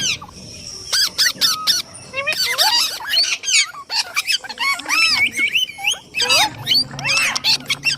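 Indian ringneck parrot chattering: a rapid string of short squawks and whistles that rise and fall in pitch, mixed with sharp clicks, pausing briefly twice.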